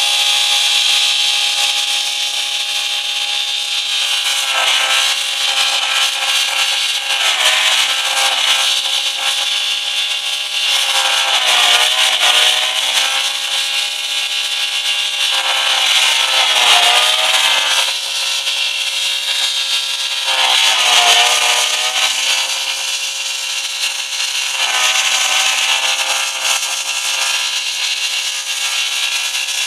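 Car engine held at very high revs in a stripped wreck, a steady high-pitched scream that dips briefly and climbs back every few seconds; it is being over-revved flat out until it blows up.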